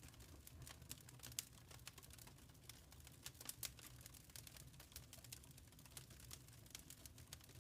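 Fireplace fire crackling quietly: irregular small pops and snaps over a low steady rumble.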